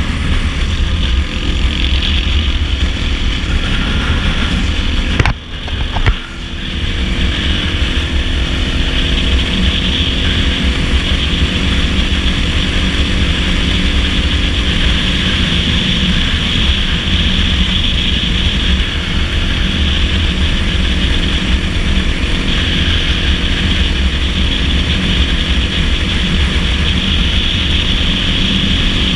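Dirt bike engine running steadily at road speed under a heavy low rumble of wind noise. A brief drop in level with two sharp clicks about five to six seconds in.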